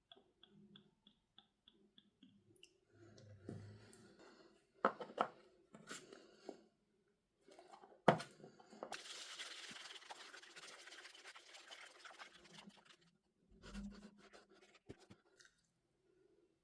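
Hands opening packaging: a quick run of faint ticks, then taps and clicks, a sharp snap about eight seconds in, several seconds of crinkling rustle, and a soft thud near the end.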